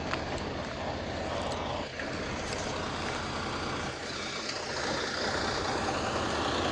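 Heavy truck's diesel engine idling steadily, getting a little louder near the end.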